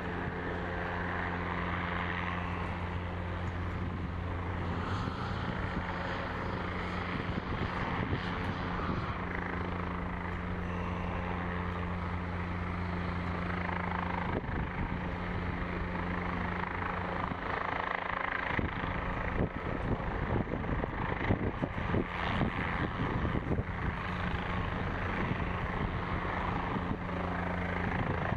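Helicopter running close by with a steady low rotor and engine hum. From about 18 seconds in the sound turns choppier and louder in uneven pulses as the helicopter lifts for departure.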